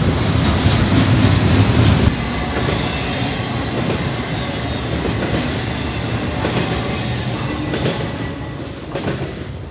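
Double-stack intermodal freight cars rolling past, a steady rumble with the wheels clicking over the rail joints. The sound drops sharply about two seconds in and fades away near the end as the last car clears.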